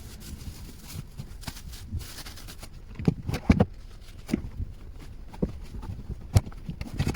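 Rustling and irregular knocks and thumps as a sleeping bag and bedding are handled and arranged in a car, the sharpest thumps about three and a half and six and a half seconds in.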